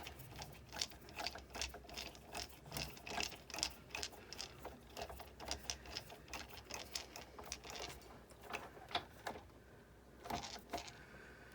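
Rapid mechanical clicking and ratcheting from a partly dismantled Sizzix Big Shot die-cutting machine being worked by hand, at about three to four clicks a second. It stops about nine seconds in, followed by a couple more clicks.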